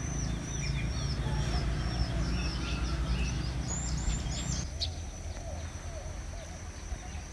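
A bird chirping over and over, short high calls two or three times a second, over a low rumble that stops about two-thirds of the way through.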